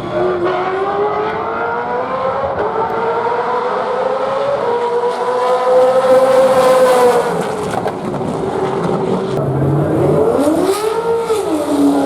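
Gen3 Supercars V8 race car engine at full throttle, its note climbing steadily for several seconds, easing off about eight seconds in, then swinging sharply up and down a few times near the end.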